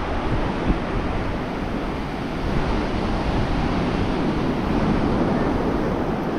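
Ocean surf washing steadily onto the beach, with wind buffeting the microphone in a low rumble.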